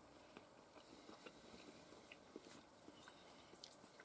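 Near silence, with faint scattered clicks of someone chewing a grilled sausage.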